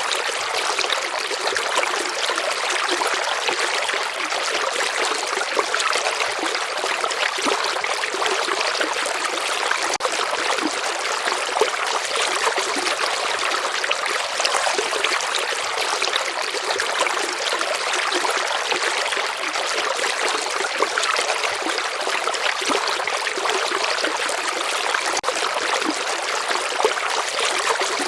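Stream water running over stones, a steady babbling and trickling rush.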